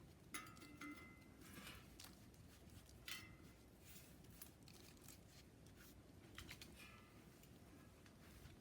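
Faint, quiet handling noises: a few short clicks and scrapes, some of them followed by a brief high ring.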